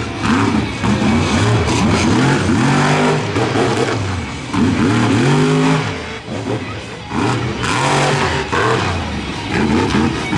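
Shell Shock'ed monster truck's V8 engine revving hard through a freestyle run, its pitch swinging up and down again and again as the throttle is stabbed and released.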